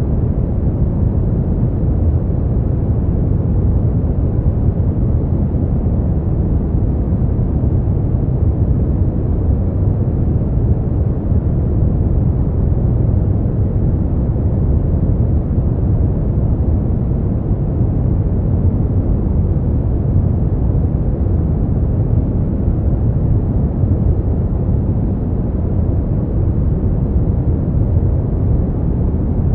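Steady synthetic brown noise: a deep, even rumble-like hiss, heaviest in the low end and dull at the top, unchanging in level.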